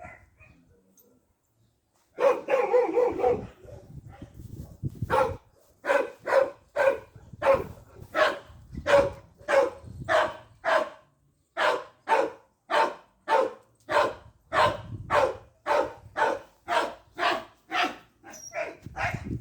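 A dog barking over and over at a steady pace, about two barks a second, starting about two seconds in with a longer, drawn-out first bark.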